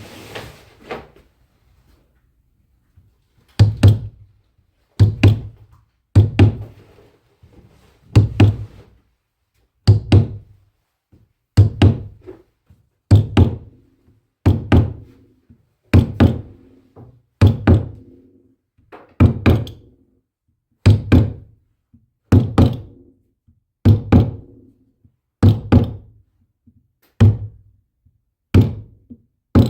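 A steady series of heavy, deep knocks, one about every one and a half seconds, starting a few seconds in: something being struck hard over and over.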